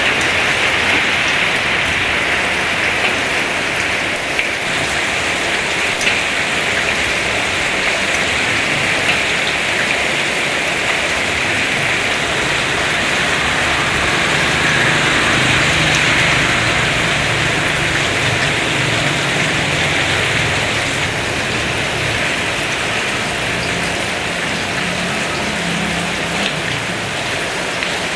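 Heavy rain falling steadily, a dense even hiss of rain on surfaces. A faint low hum runs underneath through the middle.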